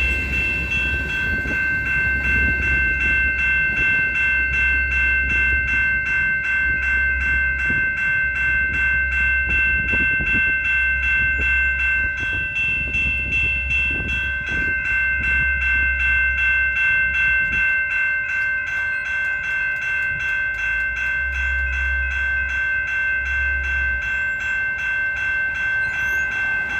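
Railroad grade-crossing bell ringing steadily, an even ding about two to three times a second. Underneath it, a freight train rumbles past over the crossing.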